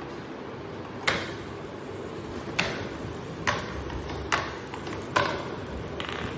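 Plastic balls clacking through a toddler's ball-drop tower toy: about six sharp, short-ringing clacks at irregular intervals roughly a second apart.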